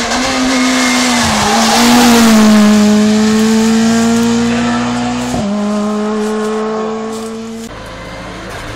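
Rally car engine running hard at high revs as the car approaches, with a sudden drop in pitch about five seconds in where the driver changes up, then pulling on at slightly lower revs; the sound breaks off near the end.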